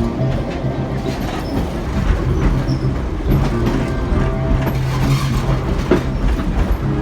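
Train running along its track, wheels clacking over the rail joints under a steady low hum.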